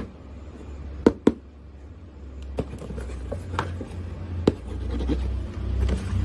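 Hands handling small objects: scratching with a handful of sharp clicks or knocks, over a low hum that grows louder near the end.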